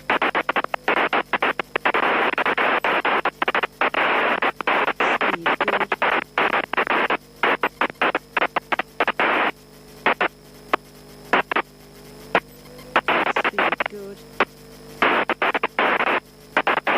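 Cockpit intercom feed in a Europa light aircraft on final approach: hissing static-like noise that cuts in and out rapidly and unevenly, over a steady low hum.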